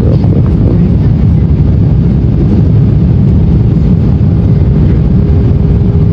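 Loud, steady low rumble of a vehicle in motion, heard from inside, with a faint steady hum running through the later part.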